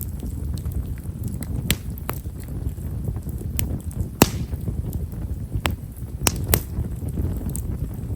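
Campfire of himeshara (Japanese stewartia) firewood burning: a steady low rumble of flames with scattered sharp crackling pops, about seven of them. The loudest comes about four seconds in and is followed by a brief hiss.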